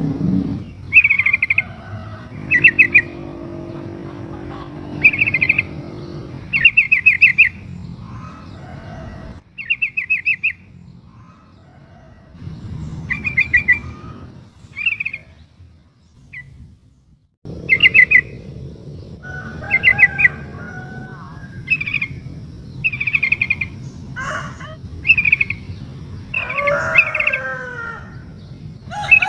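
Female yellow-vented bulbul (trucukan) calling: short bursts of quick chattering notes repeated every second or two, a lure call meant to draw a male to answer. It pauses briefly midway, then returns with busier, lower, more varied notes near the end over a faint low rumble.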